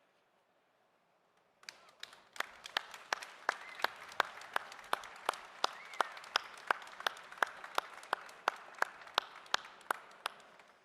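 An audience applauds, starting about a second and a half in and stopping just before the end. A loud, even beat of claps, about three a second, stands out over the general clapping.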